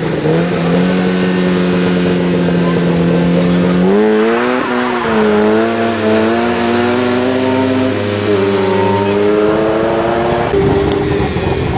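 Car engine held at steady high revs at a start, then revved sharply about four seconds in, the pitch jumping up and down, before climbing steadily as the car accelerates away. The sound changes abruptly near the end.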